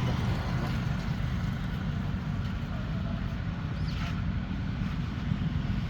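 A steady low rumble, like a motor running, with a faint high squeak about four seconds in.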